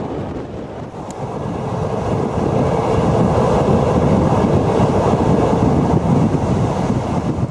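Passenger train running along the track, heard with wind buffeting the microphone at an open window. The rushing gets louder about two seconds in.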